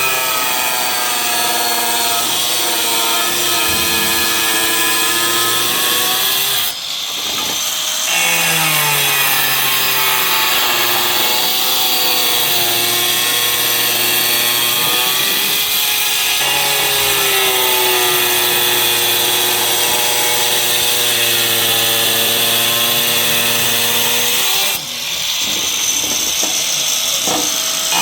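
An electric power tool running steadily under load, as in cutting. Its pitch and level dip briefly twice, about a third of the way in and near the end, then climb back.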